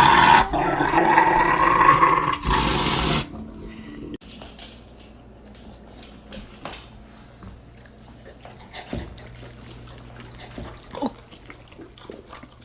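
A dog vocalizing loudly for about three seconds, which stops abruptly; after that only faint scattered clicks and taps.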